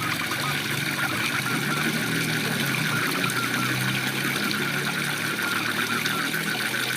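Waterfall's steady rush of water, with frogs calling in a fast pulsing trill over it and a low steady hum underneath.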